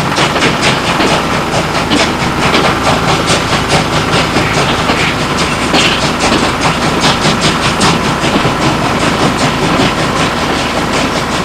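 A machine running steadily, with a fast, even clicking of about four clicks a second over a steady hum and a thin constant whine.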